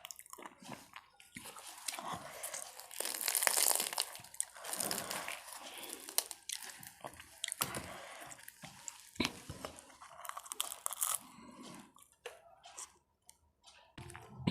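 A person chewing and biting food close to the microphone, with irregular crisp crunches and wet clicks.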